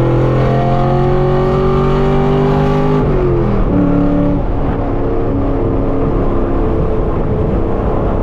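Straight-piped V8 exhaust of a 5th-gen Camaro SS pulling through a gear, its pitch rising slowly. About three seconds in the pitch drops on an upshift, and the engine then carries on at a lower, steadier pitch.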